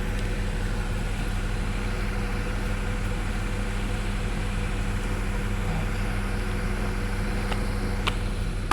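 A vehicle engine idling steadily with an even low hum, with a few faint clicks near the end.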